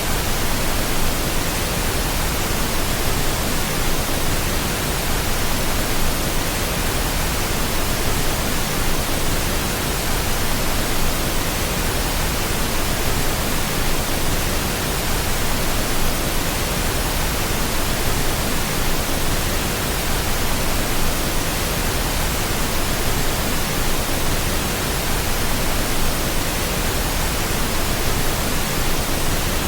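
Steady pink noise: an even, unbroken hiss across all pitches, with no change over time.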